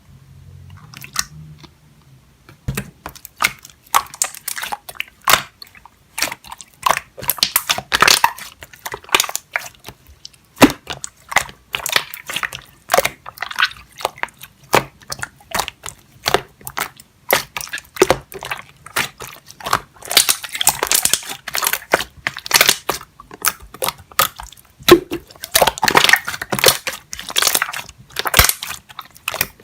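Clear slime being squeezed and pressed by hand, giving dense, irregular crackling clicks and pops that begin a few seconds in.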